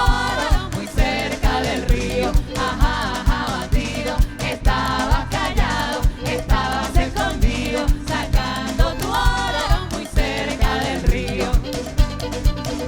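Live band music with singing over percussion and a steady low beat.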